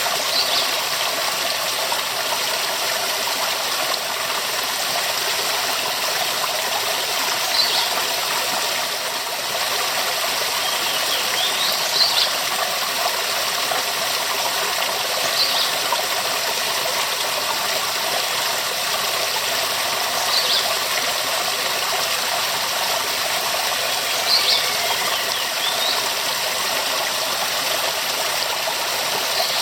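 Waterfall pouring in a steady, even rush. Short high chirps stand out briefly every few seconds.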